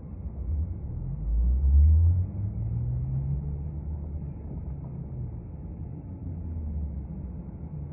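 City bus engine accelerating: a low engine tone climbs in pitch over about two seconds, loudest near the start of the climb, then settles into a steady rumble as the bus runs on.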